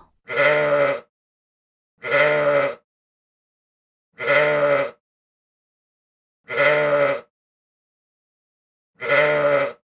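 Ram (adult male sheep) bleating five times, each a deep baa of just under a second, about two seconds apart.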